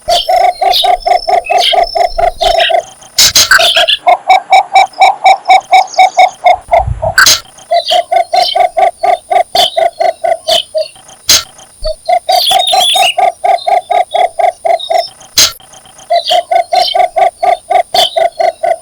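Cinnamon bittern giving its mating call: bouts of rapid, evenly repeated low croaking notes, about six or seven a second, each bout lasting about three seconds, five bouts in all, with short pauses between.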